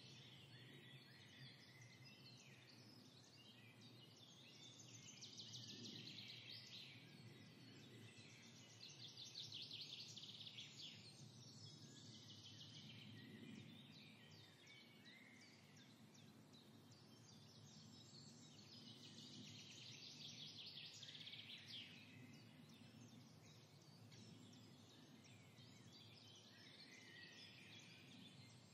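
Faint birdsong: trilled phrases and short chirps repeating every few seconds, over a low steady hum.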